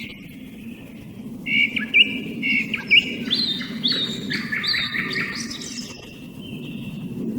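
Song thrush and common nightingale singing in duel. A loud, varied string of whistles, repeated notes and clicks starts about a second and a half in and ends on a held whistle. A steady low rumble runs underneath.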